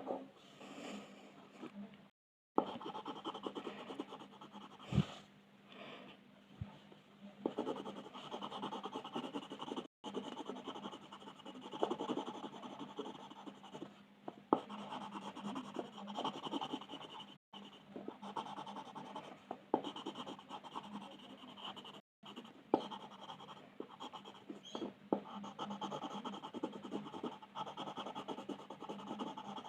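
Coloring on paper: a pencil or pen tip scratching across the page in quick, continuous back-and-forth strokes. There is a single low knock about five seconds in, and the sound cuts out abruptly for an instant a few times.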